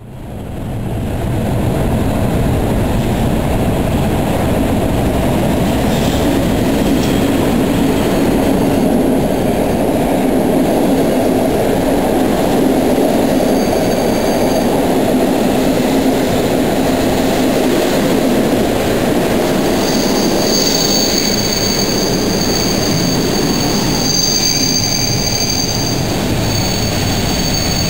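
Passenger train coaches rolling slowly past an underground station platform, a loud steady rumble of wheels on rails that echoes off the enclosed hall. A high, steady wheel squeal sets in about twenty seconds in and holds, with a brief squeal before it.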